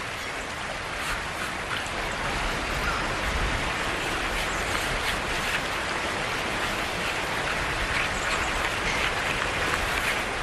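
River water rushing over falls: a steady, dense hiss, with brief brighter splashes here and there.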